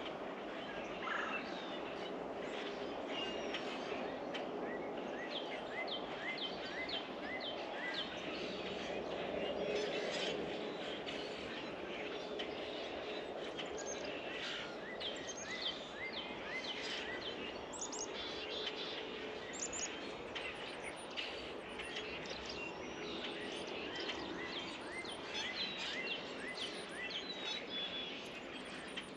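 Small songbirds at a feeder chirping, many short high notes in quick succession, over steady background noise.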